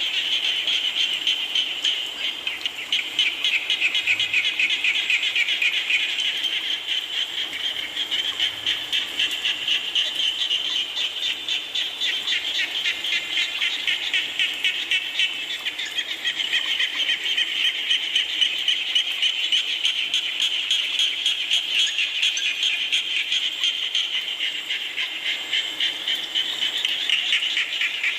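A dense chorus of frogs calling without a break, many rapid pulsing calls overlapping into one steady trill.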